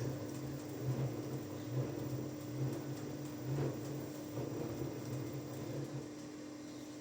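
Washing machine drum turning during the wash phase of a 40 °C cycle, its motor running with a steady hum and a rhythmic swell about once a second. The tumbling stops about six seconds in, leaving a steady hum.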